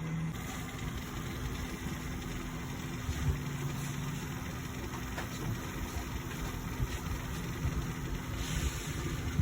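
Steady low droning hum with a constant tone, broken by a few faint clicks and a short hiss near the end.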